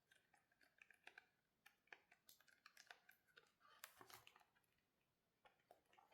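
Near silence with faint scattered clicks and taps, handling of the book as its pages are turned, busiest in the first four seconds or so.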